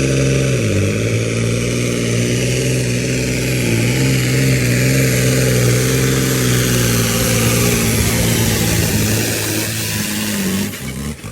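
Scania truck's diesel engine pulling hard at steady revs, with two brief dips in pitch, about a second in and again near four seconds. The engine note thins out and drops away just before the end.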